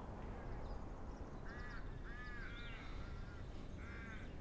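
Birds cawing, several harsh calls in short groups, over a low steady background hum.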